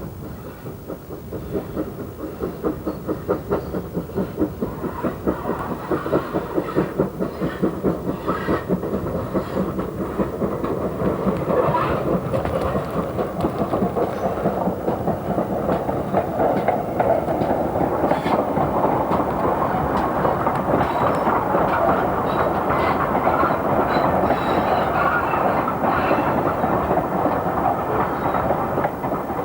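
A Great Western steam locomotive hauling a train, its exhaust beats coming quickly and evenly, then merging into the steady rumble and clatter of the train running past, easing off near the end.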